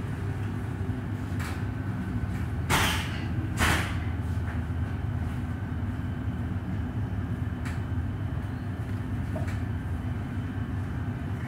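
Electric suburban train heard from inside the carriage, a steady low hum and rumble as it runs slowly along a station platform. About three seconds in come two short, loud hiss-like bursts about a second apart.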